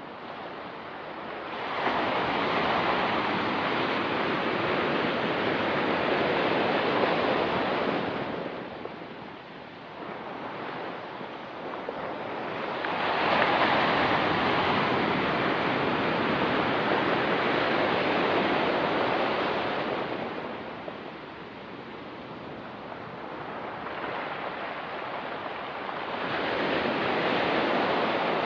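Ocean waves breaking and washing on a rocky pebble beach, three waves in turn, each swelling for several seconds and then easing into a quieter lull.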